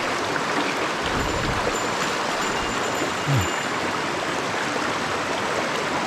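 Mountain stream water rushing steadily, with a brief low sound about halfway through.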